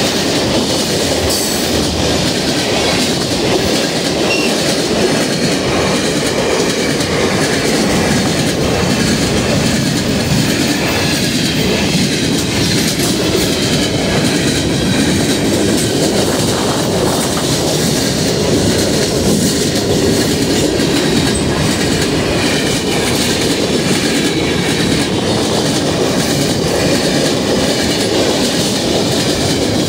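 Freight cars of a CP ballast train passing close by at speed: a loud, steady rumble of steel wheels on rail that goes on throughout.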